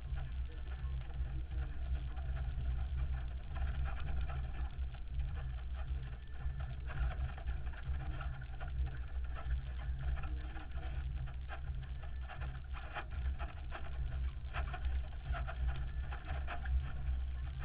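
Off-road vehicle engine running, heard through a helmet camera's microphone with a heavy, fluctuating low rumble.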